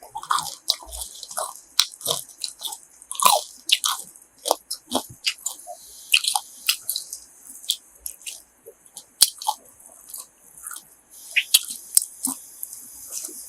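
Close-up chewing and biting of crispy grilled pork offal, an irregular run of wet crunches and crackles.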